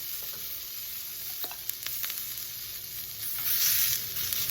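Sliced bell pepper and onion sizzling in a hot cast iron fajita skillet: a steady high hiss that swells louder about three and a half seconds in, with a few light clicks.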